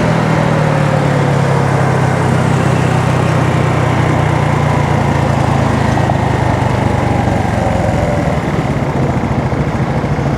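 Honda Navi's small single-cylinder engine running at a steady pace while being ridden, under a steady rush of wind and road noise.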